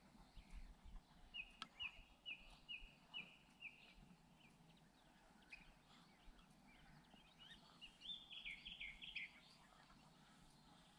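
Faint bird calls: a run of about seven short, evenly spaced high chirps starting about a second and a half in, then a quick cluster of chirps about eight seconds in, over quiet outdoor background.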